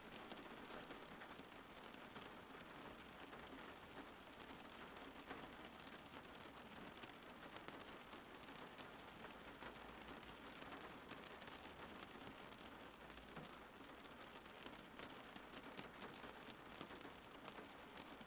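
Steady rain falling outside: a faint, even hiss with many scattered drop ticks.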